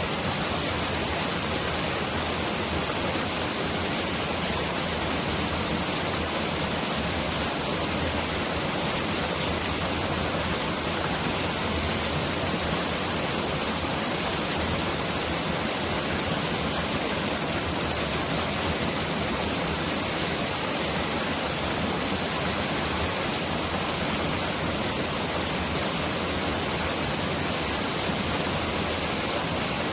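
Mountain valley stream rushing in a steady, dense hiss, like heavy rain pouring down.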